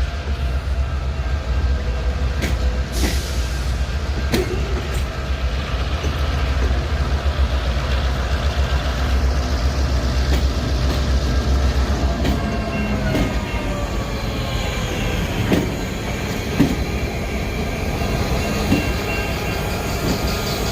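Freight train rolling slowly in reverse: a heavy low rumble that eases off about twelve seconds in, with scattered knocks of wheels over rail joints and thin steel wheel squeal.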